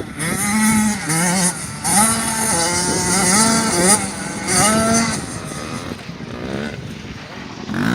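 Dirt bike engine revving on a motocross track, its pitch climbing and dropping again and again as the rider works the throttle and shifts through the corners. The engine fades a little near the end, then comes back louder.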